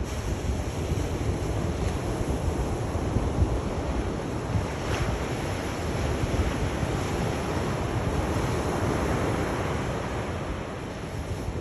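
Sea waves surging and washing ashore: a steady rush of surf over a strong low rumble, with a wave swelling a little louder about eight seconds in and easing off near the end.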